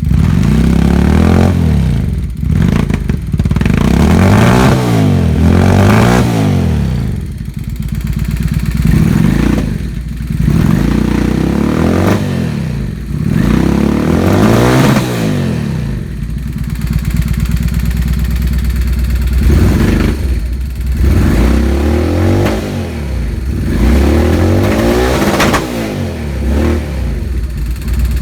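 Honda Steed 400 V-twin motorcycle engine, breathing through a 2-into-1 exhaust, idling and repeatedly revved by hand, each rev rising and falling back to idle about seven times.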